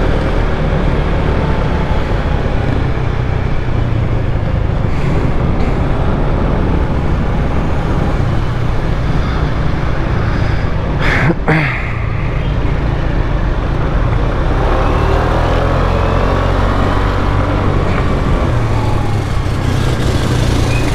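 Motorcycle riding along a town road: steady engine and road noise with wind on the microphone and passing traffic. A brief sharp sound stands out about eleven seconds in.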